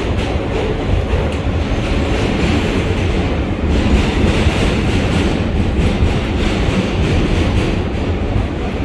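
R143 subway train running in a tunnel: a steady, loud rumble of steel wheels on rail with some clickety-clack, and a hiss that grows stronger after about three and a half seconds.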